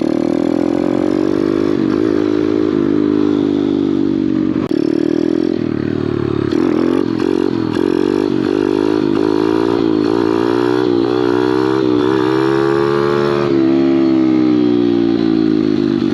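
Small Kawasaki pit bike engine revving up and down repeatedly as the throttle is worked during a wheelie attempt, with a longer held rev near the end that then falls away.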